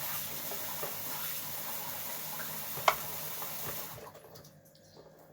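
Kitchen tap running water steadily, then shut off about four seconds in, with a single sharp clink a little before it stops.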